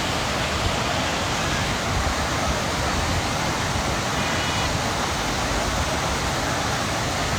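Steady rushing of falling water from a waterfall, an even unbroken hiss with no change in level.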